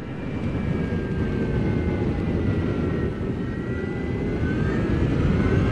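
Wind buffeting the microphone on a moving Zero S electric motorcycle, over the faint whine of its electric drive motor. The whine sinks slowly in pitch, then rises near the end as the wind noise grows.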